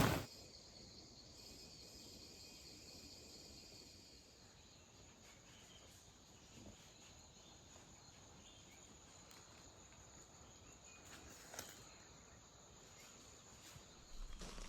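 Faint, steady insect chirring, with a single soft click about twelve seconds in.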